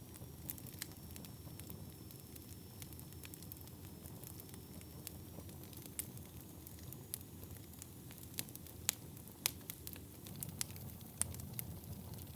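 Wood fire burning in a fireplace: a steady low rumble of flames with sharp crackles and pops scattered throughout, coming more thickly about eight to eleven seconds in.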